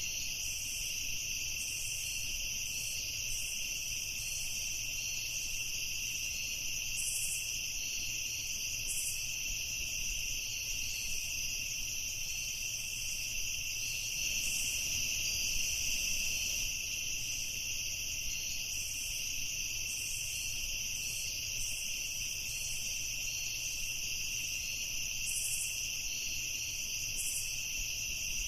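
Crickets chirping in a steady, unbroken night chorus, in two high-pitched layers, over a faint low rumble.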